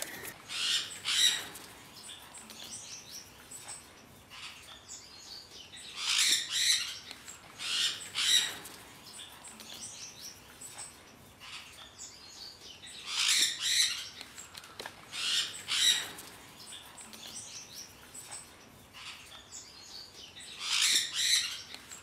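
Caged birds calling in shrill, high chirps and squawks that come in clusters about every seven seconds, with quiet gaps between them.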